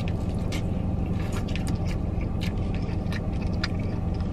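Chewing and wet mouth clicks from eating a piece of seasoned corn on the cob, scattered irregularly, over the steady low hum of a car inside its cabin.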